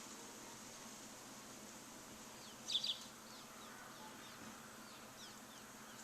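Small bird chirping: a quick cluster of short, high, falling chirps a little before halfway, then a few fainter scattered chirps, over a steady faint hiss of outdoor ambience.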